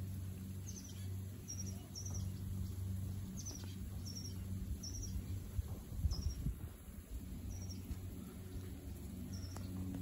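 A bird giving short, high chirps about once a second, at uneven spacing, over a steady low hum. A brief low rumble comes about six seconds in.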